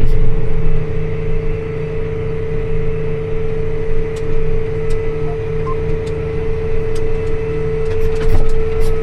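Farm tractor engine running steadily under way, a low drone with a steady higher-pitched hum on top.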